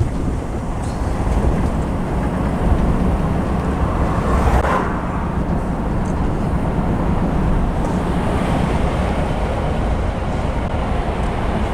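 Articulated lorry underway, heard from inside the cab: the diesel engine and road noise make a steady low rumble. A brief swell of noise comes about four to five seconds in.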